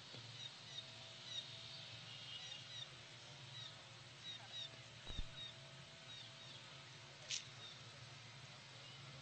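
Small birds chirping in short, repeated calls over a low steady hum. A single dull thump comes about five seconds in, and a brief high click a couple of seconds later.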